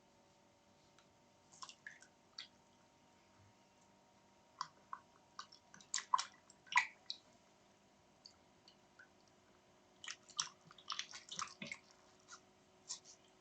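Wet smacking and clicking of a dog's mouth, as in chewing or licking, in irregular clusters, about a second and a half, six and eleven seconds in.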